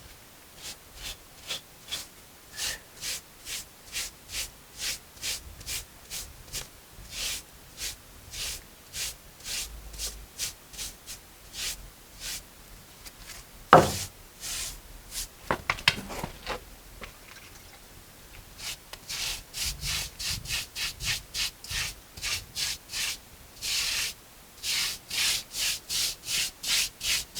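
Stiff mason's brush scrubbing over damp, freshly set mortar to texture it, in a steady series of scratchy strokes. The strokes come about two a second, then after a short pause quicken to about three a second. One sharp knock about halfway through.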